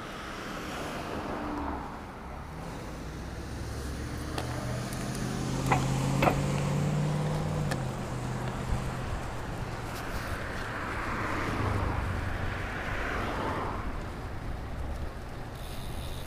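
Motor traffic passing on a city street while cycling. A vehicle's engine drone is loudest about four to eight seconds in, and the tyre noise of another car swells and fades later on, over a steady low rumble.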